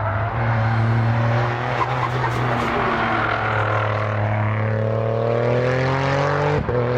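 Race car engine running hard, its pitch climbing steadily, with a brief break near the end like a gear change.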